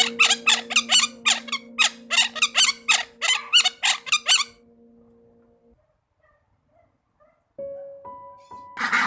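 A fast run of short, sharp animal calls, about five a second, over a held music chord; the calls stop about four and a half seconds in and the chord fades soon after. After a pause a few piano notes sound, and near the end geese start honking.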